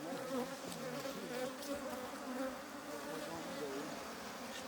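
Many honey bees from an Africanized hybrid colony buzzing in the air around an opened hive, a dense hum of overlapping wingbeats that keep wavering up and down in pitch.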